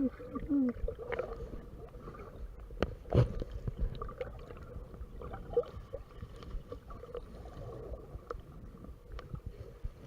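Muffled rumbling and handling noise picked up through a GoPro's waterproof case, with a sharp knock about three seconds in and a few lighter clicks.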